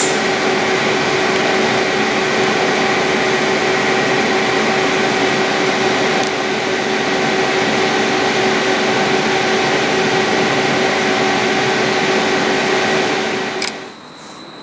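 Inside a moving train: steady running noise with an even, multi-tone hum from the traction equipment. It cuts off sharply near the end, giving way to quieter station sound with a thin high whine.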